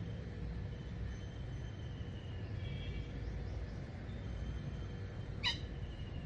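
Garden birds singing faintly over a low steady rumble, with one short, sharp call about five and a half seconds in.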